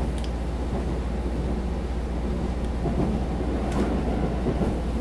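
Running sound inside a Taiwan Railway EMU700 electric multiple unit in motion: a steady low rumble of wheels on rail and the moving car.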